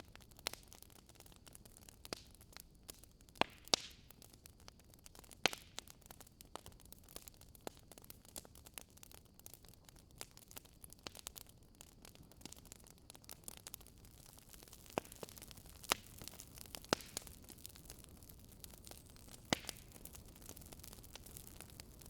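Campfire crackling: irregular sharp pops and snaps, a few louder than the rest, over a low steady hiss.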